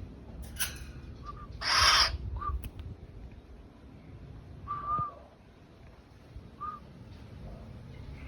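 Birds calling: a few short hooting notes spaced a second or two apart, and one loud harsh rasping call about two seconds in.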